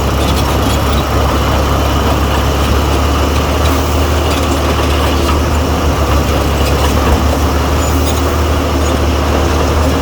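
Heavy diesel engine of earthmoving machinery running steadily with a loud, low drone, with a few faint clicks on top.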